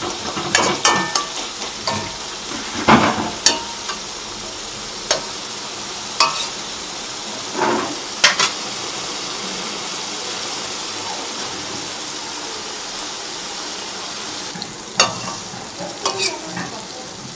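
Spice masala sizzling as it fries in a metal kadai, stirred and scraped with a steel spatula. The spatula clicks and knocks against the pan through the first half and again near the end, with the steady sizzle on its own in between. The masala is being fried down as the gravy base for a mutton curry.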